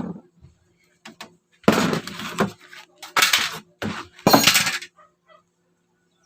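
Handling of wood and tools during a bed repair: a knock, two small clicks, then three short, harsh noises about a second apart.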